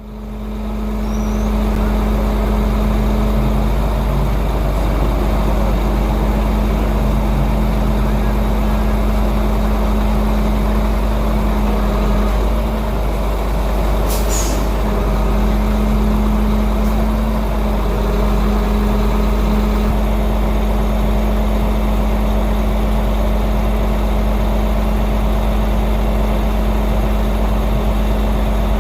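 Heavy diesel vehicle engine idling steadily, a deep rumble with a constant hum over it. A brief sharp click about halfway through.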